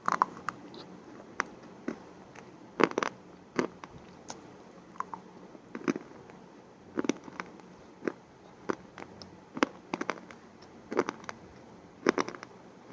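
Close-up crunchy biting and chewing: irregular sharp crunches and crackles, some single and some in quick clusters, every second or so.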